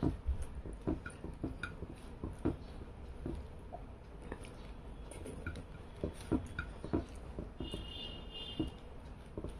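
Close-up eating sounds: wet chewing, lip smacks and small irregular clicks as rice and fish are mixed and eaten by hand. A brief high tone sounds about eight seconds in.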